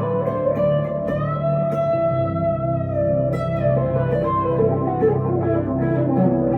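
1962 Gibson Les Paul Custom electric guitar through a Two Rock Emerald Pro amplifier, playing a slow melodic lead with held, bent notes; one long sustained note rings from about two seconds in.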